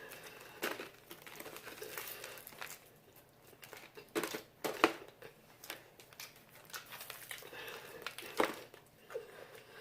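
Fried chicken wings being eaten and handled: scattered crisp crunches and rustles, with sharp snaps about four and five seconds in and the loudest about eight seconds in.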